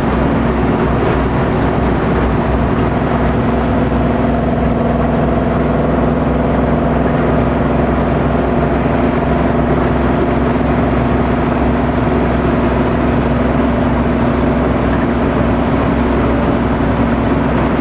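Ford Coyote 5.0 V8 in a classic Ford Bronco cruising steadily at freeway speed, its exhaust running through a long Magnaflow muffler as a steady, even note over road and wind noise.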